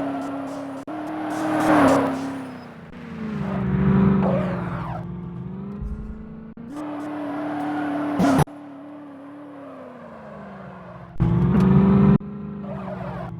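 Sports car engine revving and passing by, its pitch rising and falling, in short clips joined by abrupt cuts. There is a short loud burst about eight seconds in.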